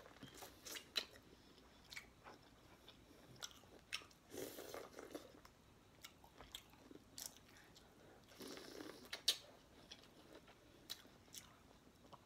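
A person biting and chewing buttered corn on the cob: quiet, scattered wet clicks and smacks, with two longer stretches of soft munching.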